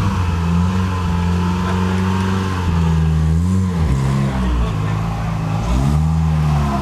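Car engine idling with brief throttle blips, its pitch rising and falling about twice.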